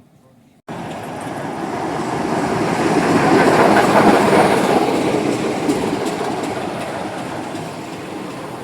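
A diesel train passing, its noise swelling to a peak about four seconds in and then slowly fading. The sound cuts in abruptly just under a second in.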